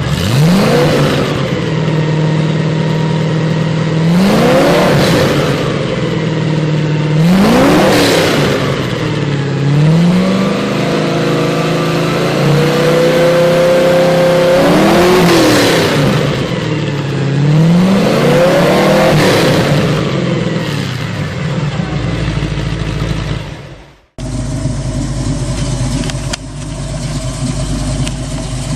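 Car engine revved up repeatedly, its pitch rising sharply about six times over the first twenty seconds. After a brief drop-out, a steadier, lower engine sound runs to the end.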